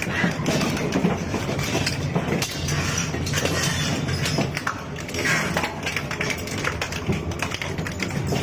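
Heavy scrap-shredding machine chewing up a motorcycle: constant cracking, snapping and crunching of metal and plastic over the machine's steady low drone.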